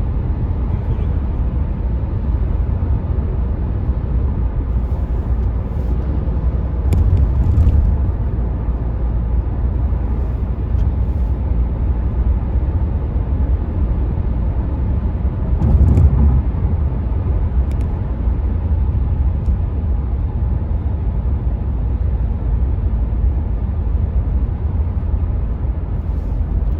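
Steady road rumble heard from inside the cabin of a 2019 Renault Mégane IV with the 115 hp 1.5 dCi diesel, cruising at motorway speed: tyre, wind and engine noise together, mostly low. The rumble grows louder for a moment twice, about 7 and 16 seconds in.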